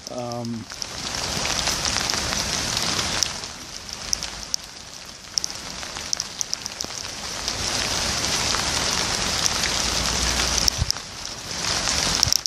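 Steady rain falling, a dense hiss with sharp ticks of individual drops landing close to the microphone. It swells louder twice, about two seconds in and again from about seven to ten seconds, with a brief low rumble near the end.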